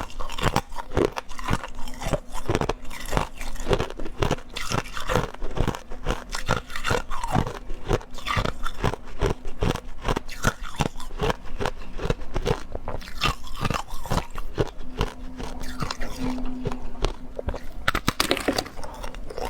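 Ice being bitten and chewed close to the microphone: a continuous, irregular crunching of many sharp cracks a second.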